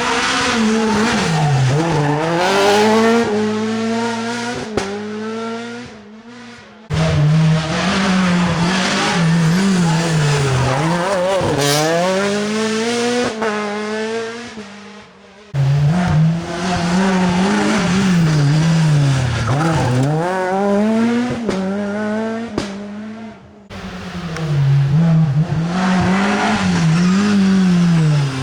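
Rally cars driven flat out on a special stage, the engine note climbing and dropping repeatedly through gear changes and braking. It is several separate passes joined by abrupt cuts, each one starting at full volume.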